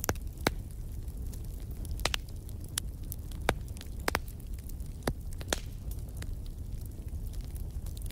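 Wood fire burning in a fireplace: a steady low rumble of the flames with sharp crackles and pops at irregular moments, the loudest about half a second, two seconds and three and a half seconds in.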